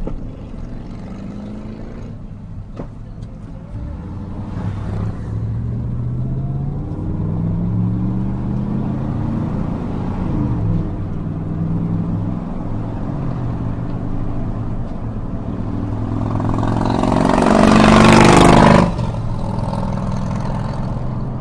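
Car engine and road noise heard from inside the cabin while driving, the engine note rising as the car speeds up. Near the end a much louder rush of engine noise with falling tones swells for about two seconds and cuts off suddenly.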